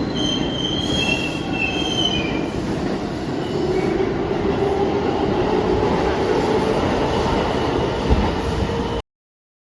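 Keihan electric train running on the rails, its wheels squealing high for the first couple of seconds, with a steady motor whine joining in from about three and a half seconds. The sound cuts off abruptly about nine seconds in.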